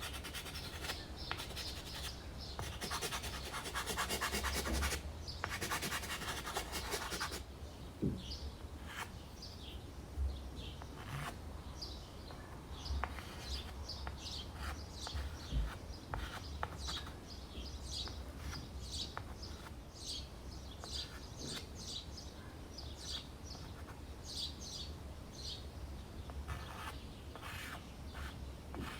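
Dry pastel scratching and rubbing across primed canvas board, densest in a long run of strokes over the first several seconds. Short high bird chirps come and go throughout.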